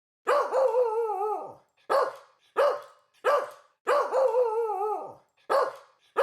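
A dog barking: a drawn-out call with a wavering pitch, then three short barks, then a second long wavering call and another short bark.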